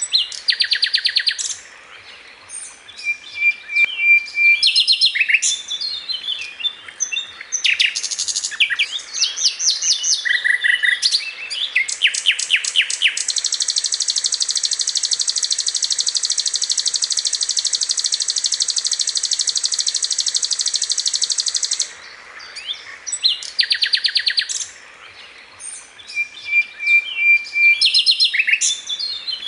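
Sikatan londo flycatcher singing a loud, varied song of quick chirps and rapid trills, with one long, even, buzzing trill about thirteen seconds in that lasts about eight seconds.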